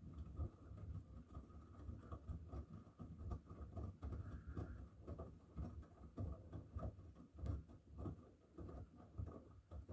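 Miele W1 front-loading washing machine tumbling a load of wet towels during a 90° cotton wash. The towels fall in the drum with irregular soft thuds over a faint steady whine.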